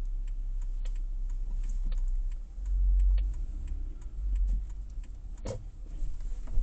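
Car turn-signal indicator ticking steadily, about three clicks a second, over the low rumble of the car cabin. A single louder knock about five and a half seconds in.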